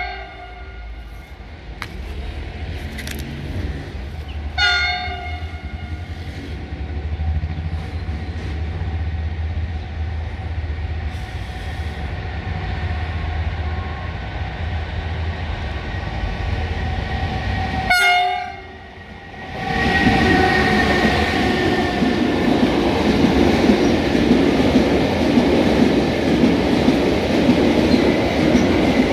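ONCF electric locomotive E 1480 approaching with a low hum, sounding short horn blasts about four seconds in and again at about eighteen seconds. Then the loaded car-carrier wagons roll past close by with a louder, steady wheel-on-rail rumble and clatter.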